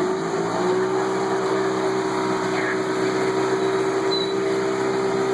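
Tour boat's motor running: a steady hum that climbs slightly in pitch in the first half second, then holds.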